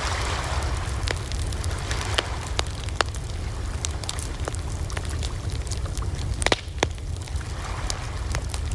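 Wood campfire burning, crackling with frequent sharp pops and snaps over a steady low rumble, with two louder pops close together about six and a half seconds in.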